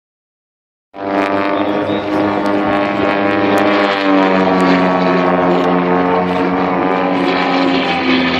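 Propeller aircraft engine running loud and steady, starting abruptly about a second in, its pitch stepping up a little about four seconds in.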